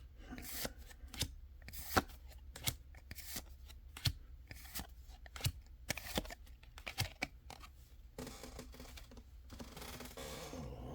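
Trading cards and their packaging being handled on a table: a run of sharp clicks and taps, a few a second. About eight seconds in, these give way to a softer, steadier rustle.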